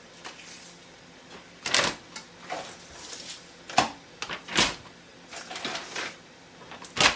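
Kitchen handling noises from chicken breasts being laid out into portions on a bench: a few sharp knocks and clatters, four of them louder, with light rustling and tapping between.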